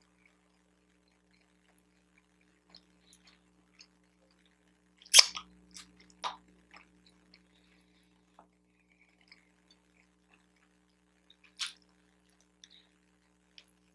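Close-up mouth sounds of someone eating a bacon, egg and Swiss cheese everything bagel: quiet chewing with scattered wet clicks. A few sharper, louder smacks come about five seconds in, a second later, and near the end.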